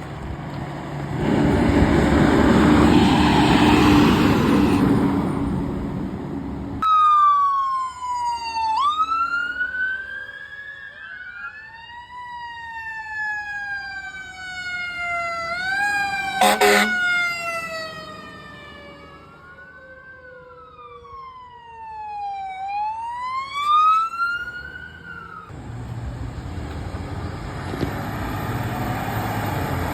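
Emergency vehicle siren wailing, its pitch sweeping slowly up and down, with a short loud blast about halfway through. It is preceded by the loud noise of a heavy vehicle passing and followed by road traffic noise.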